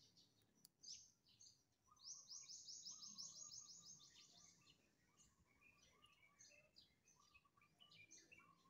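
Faint birdsong: small birds chirping, with a rapid high trill of about seven notes a second starting about two seconds in and lasting about two seconds, over short lower repeated notes.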